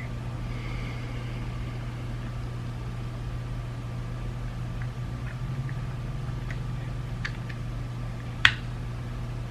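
Faint, scattered clicks of small plastic parts from a BMW iDrive controller being handled during reassembly, with one sharp click near the end, over a steady low hum.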